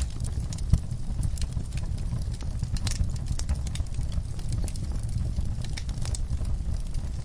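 Wood fire in a fireplace crackling over a steady low rumble, with irregular sharp snaps and one louder pop under a second in.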